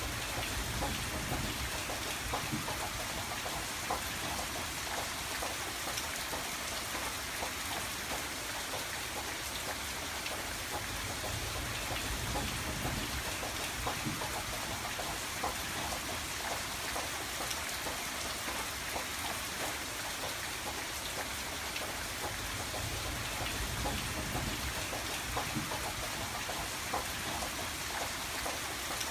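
Steady rain on a window, an even patter with individual drops ticking against the glass, over a low rumble that swells and fades every few seconds.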